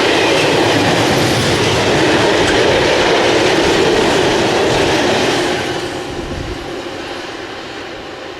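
A train passing close by on the track: a loud, steady rumble and rattle of wheels on rail that starts to fade about five and a half seconds in as it moves away.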